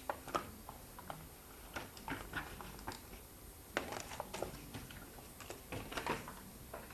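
Hands taking the parts of an RGB LED light strip kit out of their packaging: scattered small clicks and rustles.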